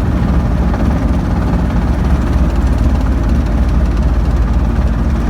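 Small helicopter's engine and rotor running, a steady low drone.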